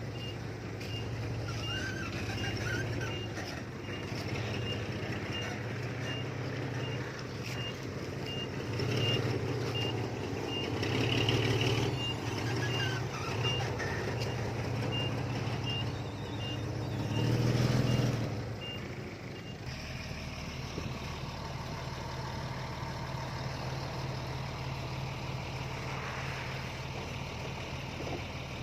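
Heavy diesel earthmoving machinery running, with a reversing alarm beeping at an even pace that stops about two-thirds of the way through. The engine swells briefly loudest just before the beeping ends, then carries on at a steady hum.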